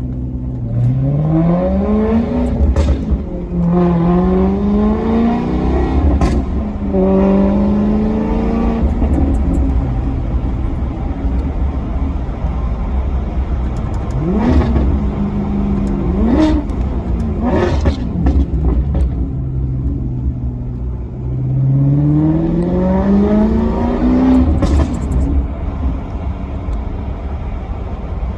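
Maserati Quattroporte Sport GT's V8 engine accelerating, its pitch climbing and dropping back several times as it pulls through the gears. In the middle come a few quick revs that rise and fall sharply, then another long climb. A steady low rumble runs underneath.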